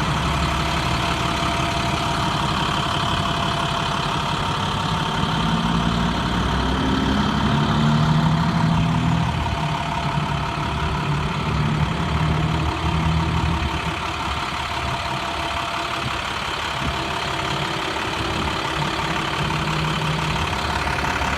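International 4400 dump truck's DT diesel engine idling steadily.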